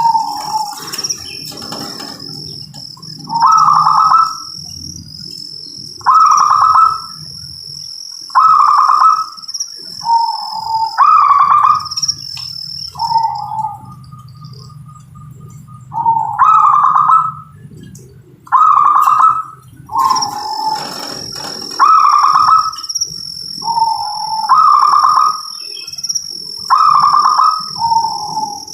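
Zebra dove (perkutut) cooing in short repeated phrases about every two to three seconds, some phrases ending on a lower note. A steady high-pitched whine runs behind it.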